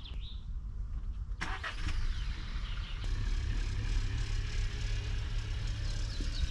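A car engine starting about a second and a half in, then running at a steady idle.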